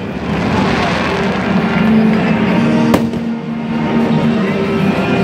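Aerial fireworks bursting, with one sharp bang about three seconds in, over music playing throughout.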